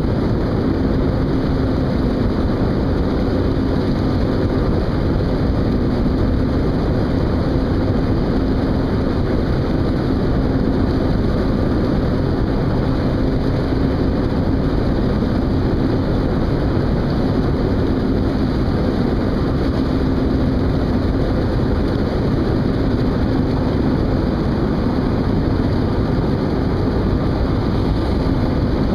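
Steady, unchanging drone of a ship's engines and machinery, with a low hum running through it.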